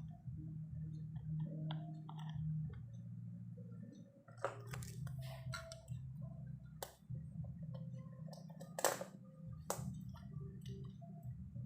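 A steady low electrical hum, with sharp clicks and knocks of handling scattered through it. The strongest click comes about nine seconds in.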